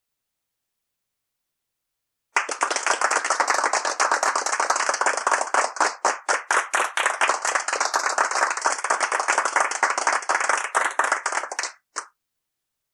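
Hands clapping: a quick, even run of claps, several a second, lasting about nine seconds and ending with one last clap.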